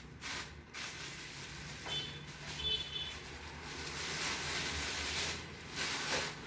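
Packaging being handled as the telescope's main tube is unpacked: continuous rustling and scraping of wrapping, with a few brief high squeaks about two to three seconds in.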